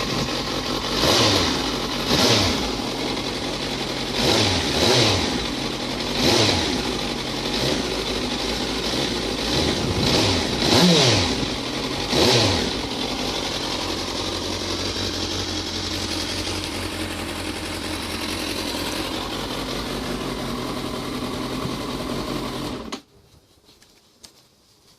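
2008 Suzuki GSX650F's inline-four engine, just cold-started and breathing through its stock exhaust, idling and being blipped about ten times with quick rises and falls in revs over the first half. It then idles steadily until the sound cuts off about two seconds before the end.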